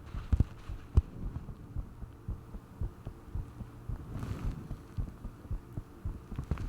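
A human heartbeat heard up close: a steady run of short, low thumps, with a brief soft rushing noise about four seconds in.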